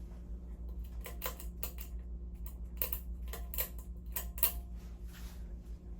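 Fasco Gulf Stream ceiling fan running on high speed: a steady motor hum, with irregular clicks scattered through it.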